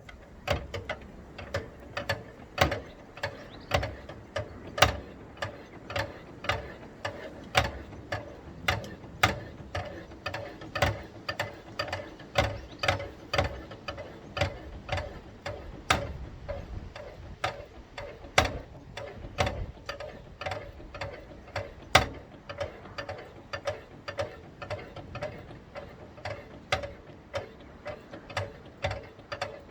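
Ratchet mechanism of a hand-worked level crossing barrier clicking steadily, about two clicks a second, some louder than others, as the barrier is raised by hand.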